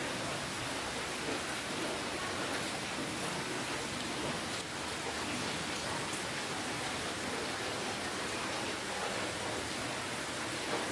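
Steady rainfall: an even hiss of rain with faint individual drop patter.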